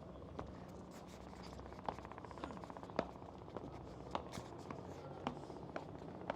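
Footsteps on hard paving, sharp taps roughly twice a second, over a faint steady low hum.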